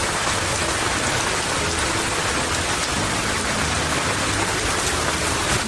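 A steady, rain-like hiss of falling or running water, with faint pattering ticks and music faintly underneath.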